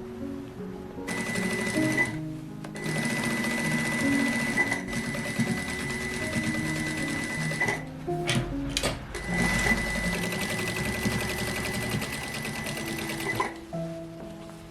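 Sewing machine stitching in several runs of a few seconds each, with a steady whine. It stops briefly about two seconds in, gives a few short bursts near the middle, and stops about a second before the end, over soft guitar music.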